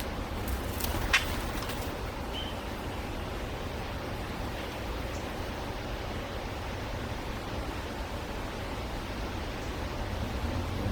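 Steady outdoor background hiss, with a sharp click about a second in and one short high chirp a little after two seconds.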